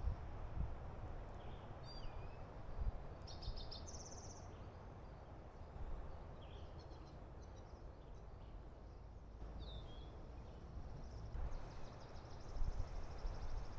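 Small birds chirping on and off, with a quick run of high trilled notes a few seconds in and a long, high buzzing trill near the end, over a steady low rumble.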